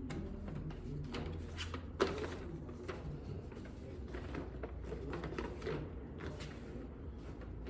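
Scattered light clicks and handling noises, with one sharper knock about two seconds in, over a steady low hum.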